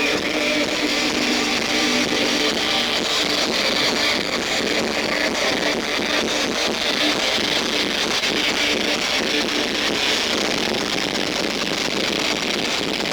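A live industrial metal band playing loud, heavily distorted electric guitars in a dense, steady wall of sound, recorded with little bass.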